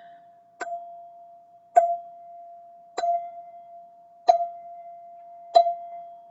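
A single tuned metal chime tube, the Black ZenTube, struck with a mallet five times at an even pace of about one strike every 1.2 seconds. Its one clear tone rings on between strikes.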